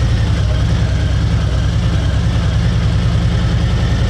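Harley-Davidson Ultra Limited's V-twin engine running steadily, a loud, even low pulsing.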